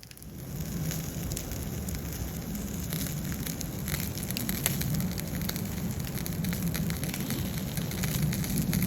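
Wood campfire crackling, a steady hiss with many small sharp pops and snaps.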